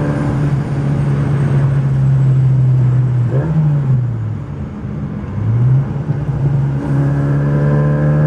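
Tuned Mini Downton's four-cylinder A-series engine pulling steadily on the road; about three and a half seconds in the revs drop away as the throttle comes off, then climb again about five and a half seconds in.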